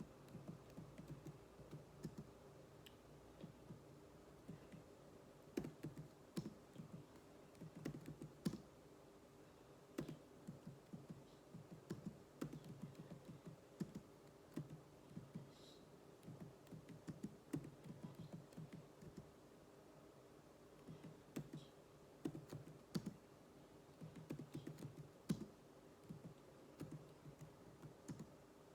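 Computer keyboard being typed on in quick, irregular runs of keystrokes, over a faint steady hum.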